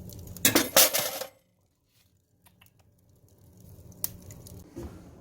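Clatter of kitchen dishes and utensils: loud clinks and scrapes in the first second or so, then a few light clicks and one sharp tick near the end.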